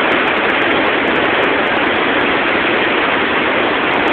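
Storm runoff of the Battenkill River rushing steadily, a loud even wash of water noise.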